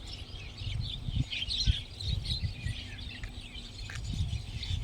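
A flock of mynas chattering and chirping in a busy, overlapping jumble of short calls, with an uneven low rumble underneath.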